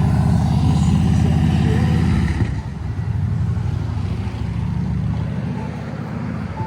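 A motor vehicle's engine running close to the microphone, loud for the first two seconds or so and then dropping away, with a quieter steady engine sound going on after.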